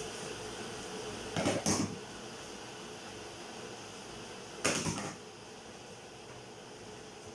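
Two short bursts of kitchen clatter, a can or utensil knocking and scraping against a cooking pan as canned tomato goes into the sauce, over a steady background hum.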